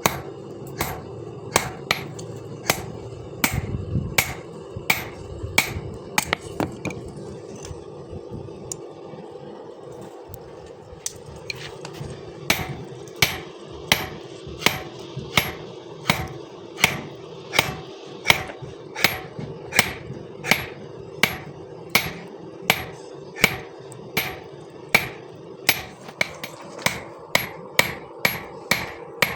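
Hammer blows forging a hot piece of bearing-ring steel into a knife blade, struck at an even pace of about two a second, each with a short metallic ring. The blows grow weaker and sparser for a few seconds about a third of the way in, then resume steadily. A steady hum runs underneath.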